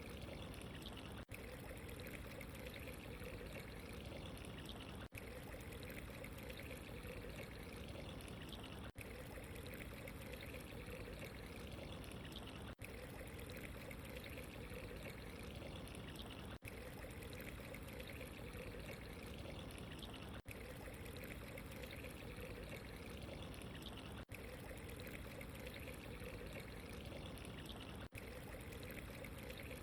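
Steady running water, a trickling pour, with a brief dip in level about every four seconds, as where a short recording is looped.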